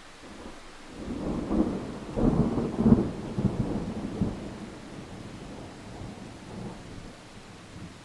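A roll of thunder over steady rain: a deep rumble builds about a second in, is loudest between two and three seconds, and dies away over the next few seconds, while the rain hiss carries on.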